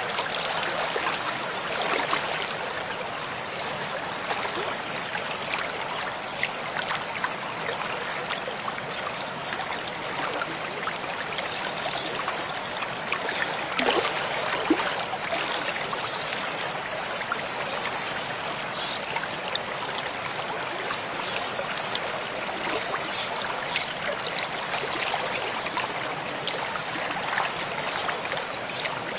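Mountain stream flowing steadily, with many small splashes and gurgles running through the constant rush of water.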